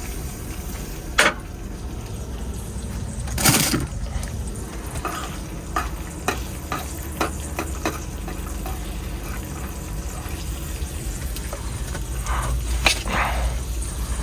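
Cooking in a frying pan: food sizzling, with scattered sharp clicks and a few short scrapes of a utensil, over a steady low hum.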